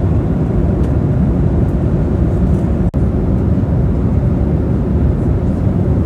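Steady, loud jet airliner noise from a Boeing 737-800, with a momentary gap about three seconds in.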